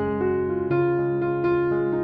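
Background music on electric piano: gentle notes struck every half second or so.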